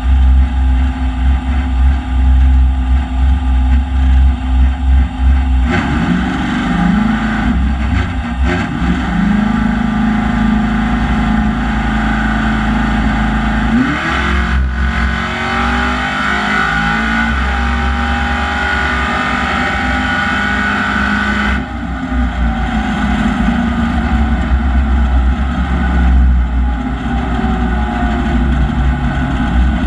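Ford FE big-block V8 of a 1968 Falcon drag car, heard from inside the cabin. It runs at low speed with a pulsing level, then pulls hard about six seconds in, with sliding pitch at the gear changes. It cuts back suddenly about twenty-two seconds in and runs on at low speed.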